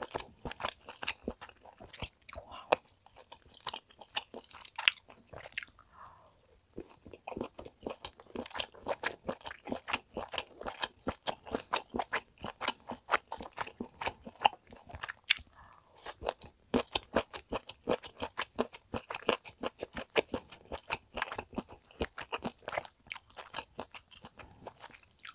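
Close-miked chewing of steak: a rapid run of small mouth clicks and smacks, several a second, with two brief lulls, about six seconds in and again near the middle.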